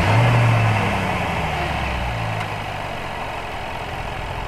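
Jaguar F-Pace SVR's 5.0-litre supercharged V8 just after starting. The start-up flare at the very beginning eases down into a steady idle.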